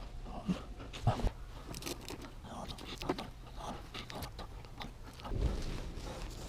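Scattered clicks, scrapes and a couple of sharper knocks of hand work on a Honda Super Cub's rear wheel during a tyre and tube change, with a short low rumble near the end.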